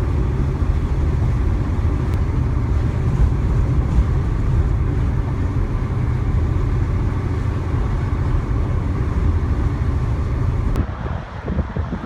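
Steady low rumble of a car on the move, road and wind noise, which drops away suddenly near the end.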